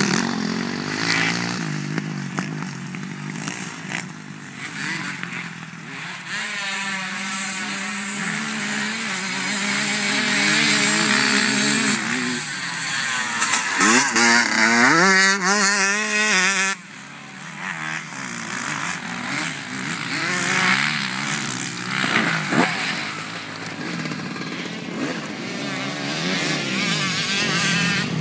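Motocross bike engines running and revving, their pitch rising and falling as the bikes accelerate and back off. A little past halfway, one engine revs up steeply and then cuts off abruptly.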